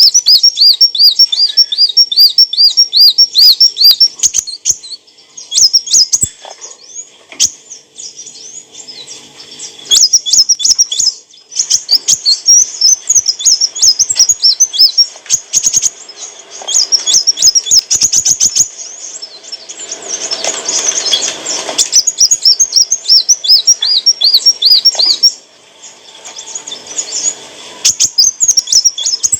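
Kolibri wulung sunbird singing: rapid series of high, thin chirps and looping trilled notes in repeated bursts with short pauses between them.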